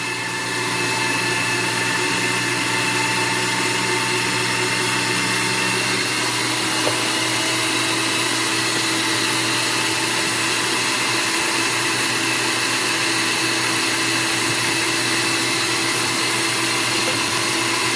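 AARTVARK TEES electric meat grinder motor running steadily while bread is fed through to push the last ground beef out of the auger. A low hum in the motor sound drops away about six seconds in.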